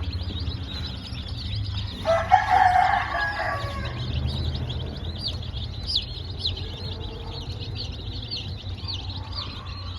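A brood of chicks peeping constantly in high, rapid cheeps, with a rooster crowing once about two seconds in, over a steady low hum.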